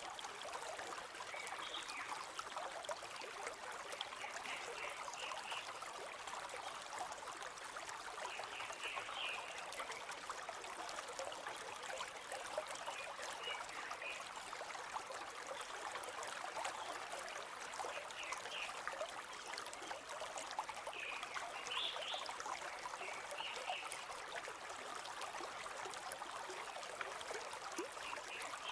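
A river flowing steadily, with short higher-pitched sounds scattered every few seconds.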